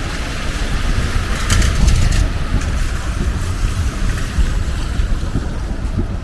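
Wind buffeting the microphone as a steady low rumble, with a hiss of outdoor street noise behind it and a few short clicks about a second and a half in.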